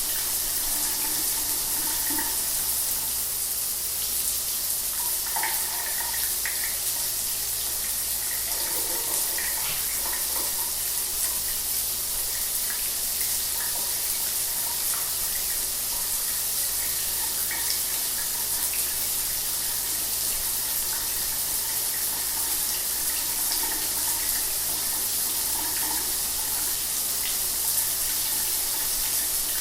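Shower water running steadily, a constant hiss of spray with small splashes scattered through it.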